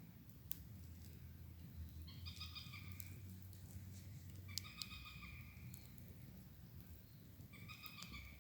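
Faint bird calls, each a short pitched call of under a second, repeated about every two and a half seconds, with a few sharp crackles and a low hum underneath.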